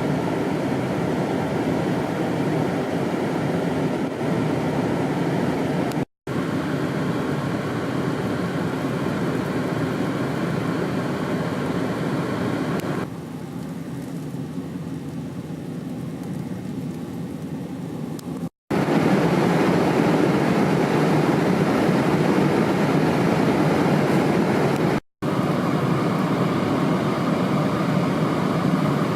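Strong gusty wind rushing over the microphone mixed with highway traffic noise, a steady loud roar with no pauses of its own. It eases for a few seconds near the middle, and three brief dead silences mark cuts between clips.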